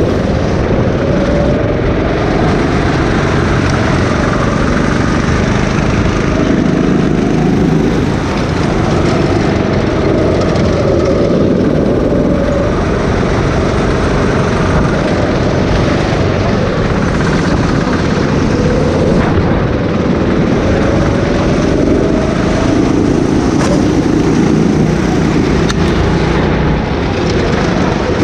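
Go-kart engine running hard, its pitch rising and falling again and again as it speeds up and slows, over a heavy low rumble.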